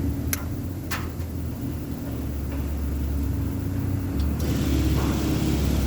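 A steady low mechanical hum or rumble, with two sharp clicks about half a second apart near the start.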